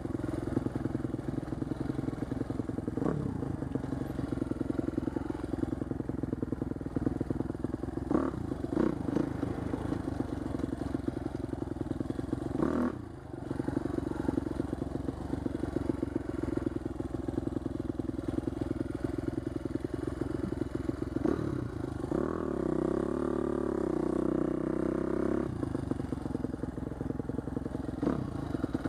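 2010 Husqvarna TC250 dirt bike's single-cylinder engine running under way, with brief rises in revs a few times and a stretch of wavering, fluttering revs about three-quarters of the way through.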